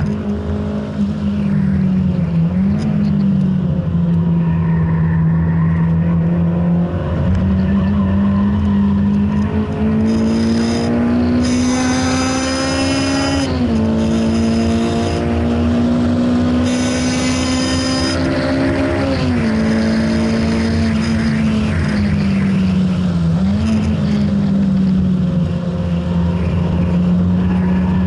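Honda Integra DC5's four-cylinder engine heard from inside the cabin under hard track driving. About a third of the way in, the revs climb to a high, strong pitch and drop sharply at a gear change. They climb again and drop a second time before settling to a steadier drone.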